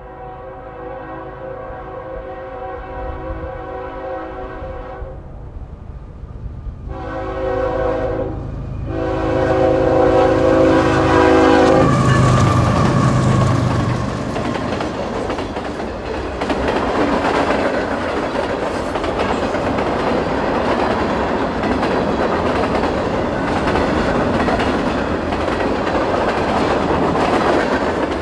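A Norfolk Southern freight train's diesel locomotive sounds its air horn for a grade crossing: one long blast, then two more close together, ending about 12 seconds in. The locomotive then passes with a surge of engine rumble, and the freight cars follow, rolling by with a steady rumble and clickety-clack over the rail joints.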